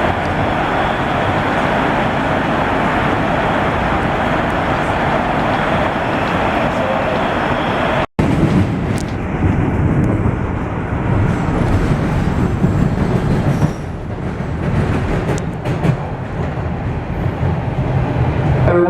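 Subway train running between stations, heard from inside the car: a steady, loud rumble and rail noise. The sound cuts out for an instant about eight seconds in, then carries on lower and rougher with scattered clicks, easing slightly near the end.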